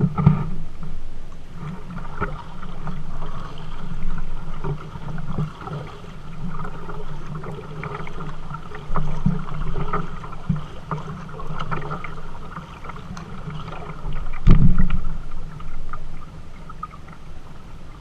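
Kayak paddling on a river: paddle strokes dipping and splashing, with scattered drips and small knocks, and one louder thump about fourteen and a half seconds in.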